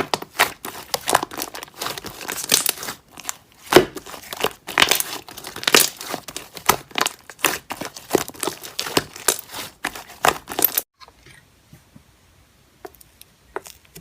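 Slime being squeezed and worked by hand, making dense crackling and popping clicks; it stops suddenly about eleven seconds in, leaving only a few faint clicks.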